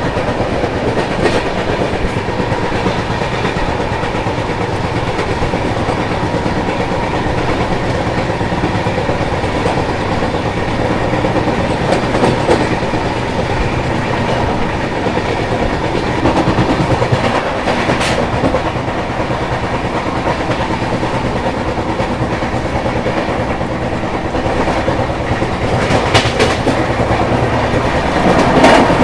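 Passenger train coaches running at speed, heard from an open coach doorway: a steady rumble of steel wheels on the rails, with a few sharp clicks as the wheels pass over rail joints.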